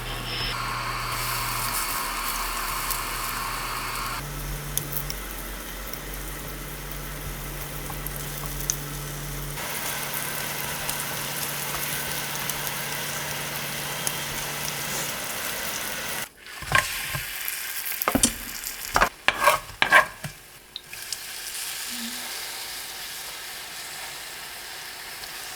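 Potato pieces coated in potato starch sizzling steadily as they pan-fry in oil. For a few seconds past the middle, a run of sharp clicks and knocks of a utensil against the pan breaks in, then the sizzling carries on.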